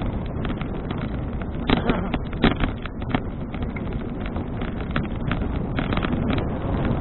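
Wind buffeting the microphone of a bicycle-mounted action camera while riding, a steady rumble with frequent small knocks and rattles throughout. A couple of sharper knocks come about two seconds in.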